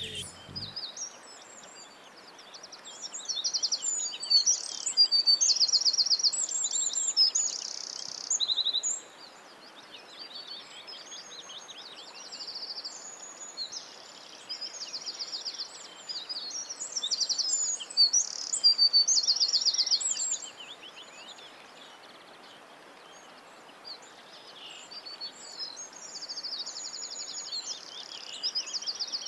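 Songbirds chirping and singing, with many short high calls and fast trills that come in louder bursts, over a steady hiss of background noise.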